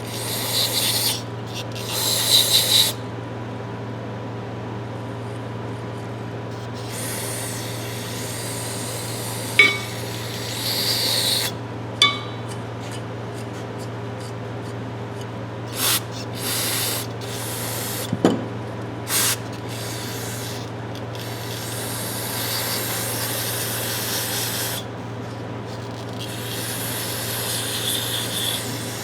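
Intermittent scrubbing and rubbing on metal adjustable wrenches being cleaned, in irregular bursts of a second or two, with a few sharp metallic clicks. A steady low hum runs underneath.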